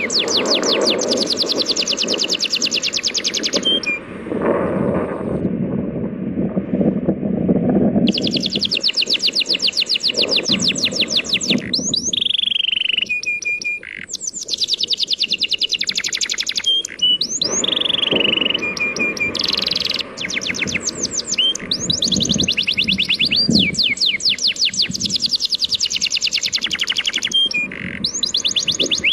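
A songbird singing long, fast trills of rapidly repeated high notes, with a pause of a few seconds about four seconds in, over the steady wash of sea waves.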